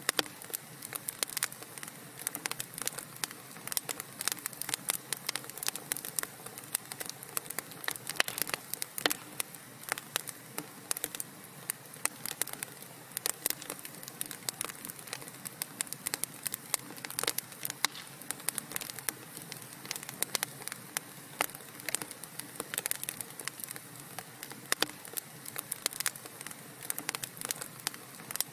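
Wood fire crackling in a fireplace: many irregular sharp snaps and pops, several a second, over a soft steady hiss.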